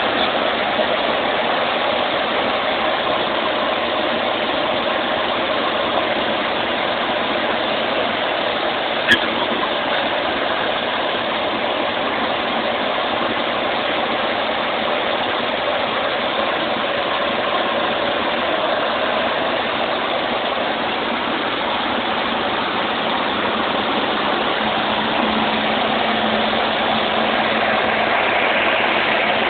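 Cessna 150's four-cylinder Continental O-200 engine and propeller running steadily as a constant drone, with a brief click about nine seconds in.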